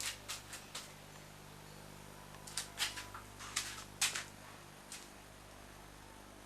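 Scattered light clicks and taps in two short clusters, near the start and again midway, over a faint steady hum.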